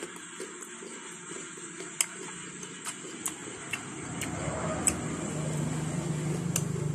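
Close-miked chewing of ripe papaya pieces, with scattered wet mouth clicks and smacks. About halfway through, a low engine hum rises in the background and grows louder.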